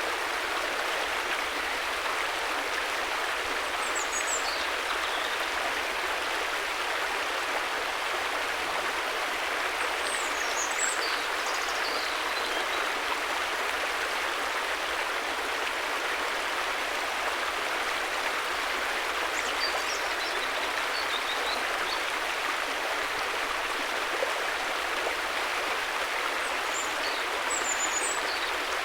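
River water flowing in a steady, even rush, with a few brief high chirps now and then.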